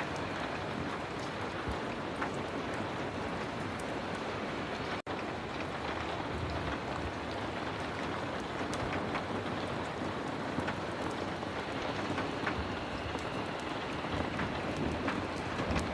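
Heavy rain falling steadily, with scattered sharp crackles through it. The sound cuts out for an instant about five seconds in.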